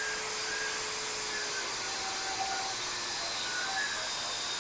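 Angle grinder with a cutoff wheel cutting through a 1-inch threaded-rod lead screw held in a vise: a steady abrasive hiss.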